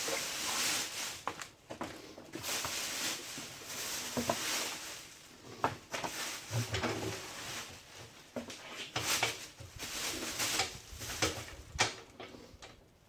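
Rustling and irregular knocks and clicks of cardboard packaging and loose parts being handled.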